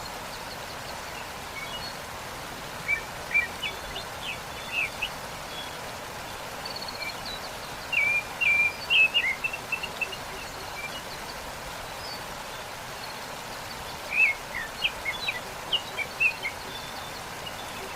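Steady rush of falling water from a waterfall, with a small songbird singing three bursts of quick, high chirps: one early, one in the middle and one near the end.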